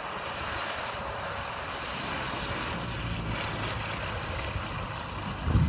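Zenith CH 750 Cruzer light aircraft with a Viking engine flying on its landing approach: a steady propeller-and-engine drone with a faint low engine tone. A louder low rumble starts near the end.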